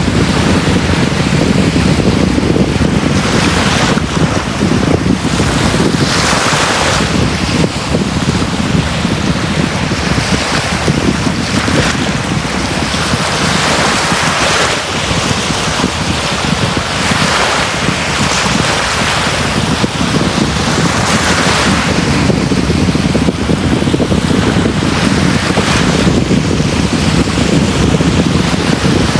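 Sea waves breaking and washing up a beach, one after another every few seconds, with a steady rush of surf underneath.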